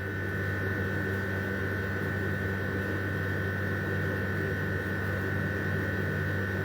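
Steady electrical hum with a constant high-pitched whine over it: the background tone of the recording, with no speech.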